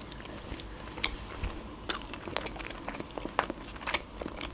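A person chewing a bite of a soft-bun mini beef burger, close to the microphone: a stream of short, irregular mouth clicks and smacks.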